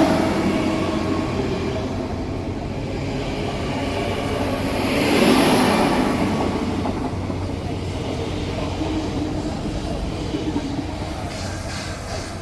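A train running past on the line: a steady low hum under rushing wheel and rail noise that swells about five seconds in and then slowly dies away.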